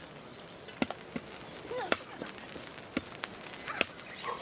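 Freshly lit campfire kindling crackling, with sharp irregular pops about every second, over faint background voices.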